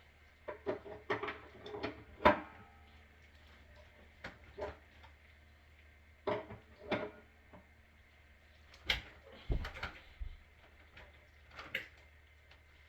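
Tools and pipe fittings being handled during plumbing work: scattered knocks and clinks, with one loud clank about two seconds in that rings briefly.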